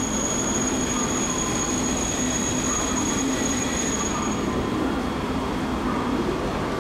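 Shinkansen train moving slowly along a far track through a station: a steady rumble and hiss, with a thin high whine that stops about four and a half seconds in.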